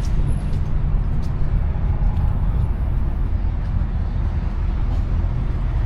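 Cummins diesel pickup engine running steadily, a constant low sound with no change in pace.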